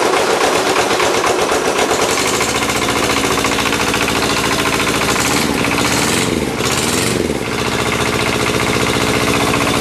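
Simplicity 7117 tractor's Kubota diesel engine just after catching on a cold start without glow plugs. It runs rough and uneven for about two seconds, then settles into a steady run. Around six and seven seconds in, its speed dips and comes back up twice.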